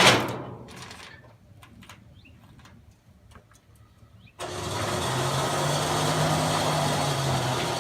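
A car engine running steadily with a low hum, cutting in suddenly about four and a half seconds in after a quieter stretch with a few clicks.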